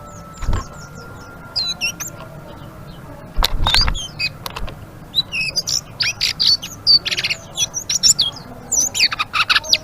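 Selendang biru songbird singing in a rapid chattering twitter (ngeriwik), with short high chirps that come thick and fast in the second half. Two dull low thumps fall about half a second in and about three and a half seconds in.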